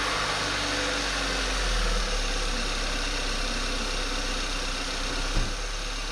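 VW Tiguan's 2.0T turbocharged four-cylinder engine idling just after being started, with a freshly replaced water pump. It runs a little louder for the first two seconds, then settles into a steady idle, with one short knock about five and a half seconds in.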